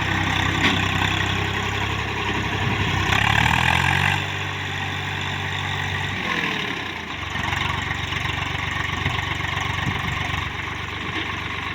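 Swaraj 744 tractor's three-cylinder diesel engine running under a loaded trolley. It revs up and gets louder about three seconds in, drops back about a second later, and its pitch glides down around six seconds in before it settles into a steady run.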